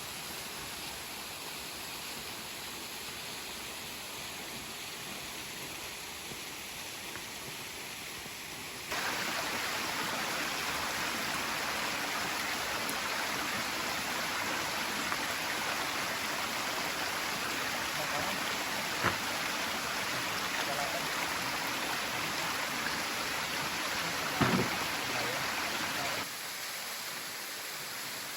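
Steady rush of falling water. It turns suddenly louder about nine seconds in and drops back near the end, with a short knock partway through and another brief sound a few seconds later.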